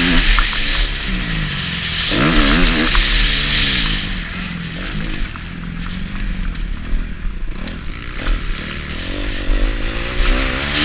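Kawasaki KX250F motocross bike's single-cylinder four-stroke engine revving hard, its pitch swinging up and down as the throttle works. It eases off about four seconds in and revs up again near the end.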